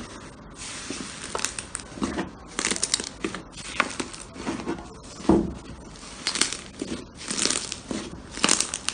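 Slime being squeezed and pressed by hand, making irregular crackling, clicking bursts, the loudest a little past the middle.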